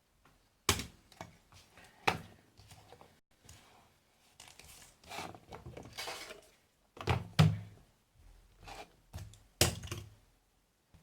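Handling noises on a workbench: a few sharp knocks and thunks of hard objects being set down or moved, with softer scraping and rustling between them.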